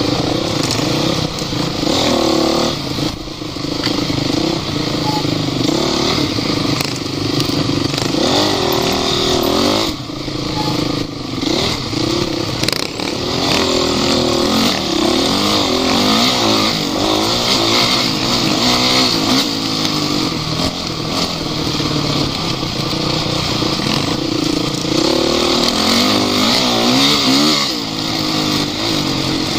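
Offroad vehicle engine running under load, its pitch rising and falling again and again as the throttle is worked.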